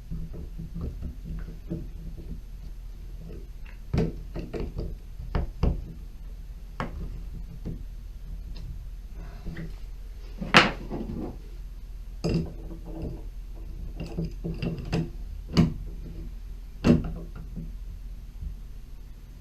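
Irregular clicks and knocks of hand tools and valve parts being handled while a Mixet tub and shower valve cartridge is replaced. The sharpest knock comes about ten and a half seconds in, over a faint steady hum.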